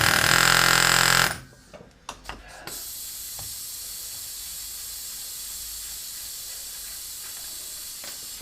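Pneumatic air hammer running in a rapid, buzzing burst against a seized driveshaft, then cutting off suddenly about a second in. A few light clicks follow, then a steady hiss of escaping compressed air.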